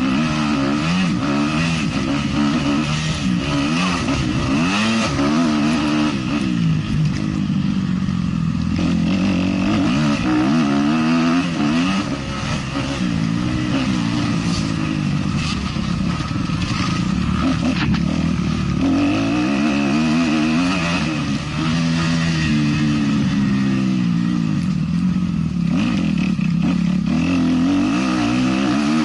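Motocross bike engine racing, the revs climbing and dropping again and again as the rider accelerates out of corners and shuts off into them, with short easings of the throttle about twelve and twenty-one seconds in.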